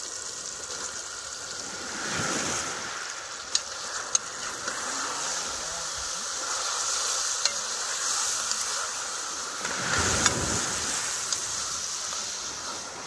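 Salt mackerel and seasoning sizzling in hot oil in a metal pot over a wood fire, with a few sharp clicks of a metal ladle against the pot as it is stirred.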